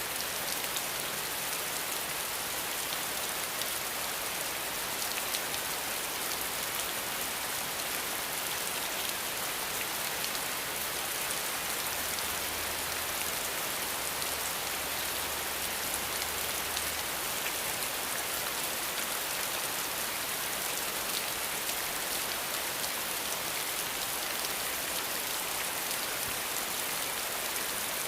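Steady rain falling: an even, continuous hiss of drops with no breaks.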